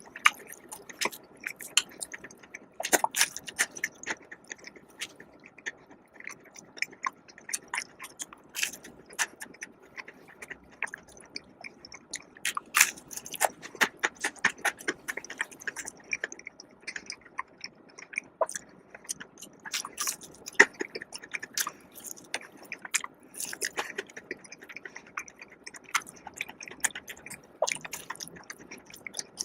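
Close-miked eating: a person biting and chewing food, with many irregular sharp crunches and mouth clicks.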